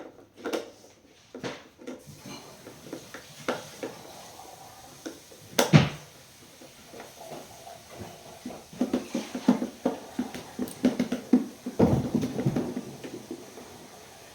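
Scattered knocks, clicks and clatter of hard objects being handled, with one sharp knock about six seconds in and a busier run of knocking near the end.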